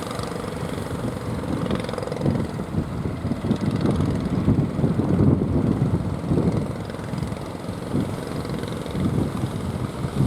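Fishing boat engine running, with strong wind buffeting the microphone in uneven gusts; the engine's steady hum fades in the first couple of seconds.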